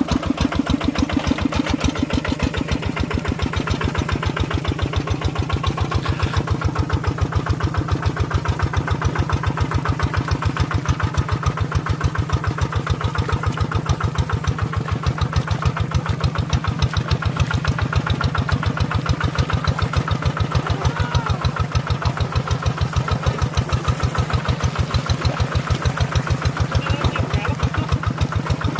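Tractor engine running steadily with an even, regular chugging beat.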